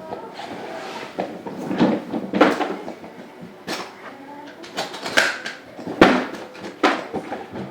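Irregular knocks and clatter from things being handled, with a few sharper knocks about two and a half, five, six and seven seconds in.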